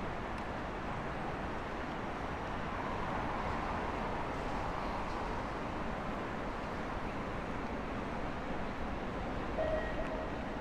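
Steady city street ambience: constant traffic hum, swelling a little as a vehicle passes in the middle, with a short tone near the end.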